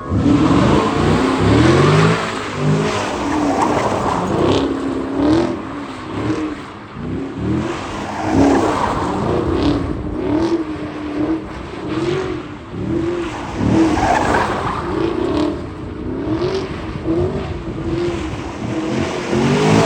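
Chevrolet Camaro sliding in circles: the engine revs rise and fall over and over while the rear tires skid and squeal.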